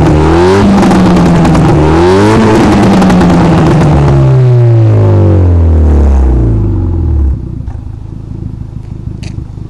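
Renault Mégane RS 225's turbocharged four-cylinder engine through a Milltek cat-back exhaust, revving up quickly twice, then the revs falling away over several seconds. About seven seconds in it drops suddenly to a much quieter steady note, with a few sharp clicks near the end.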